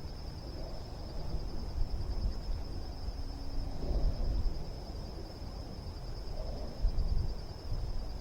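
Outdoor pond ambience: low wind rumble on the microphone, a steady high-pitched whine, and about three faint low hooting calls from a bird, spaced a few seconds apart.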